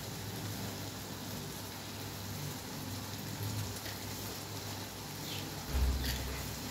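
Tomatoes and fried onions sizzling steadily in oil in a kadai as the masala cooks down. A dull low thump about six seconds in.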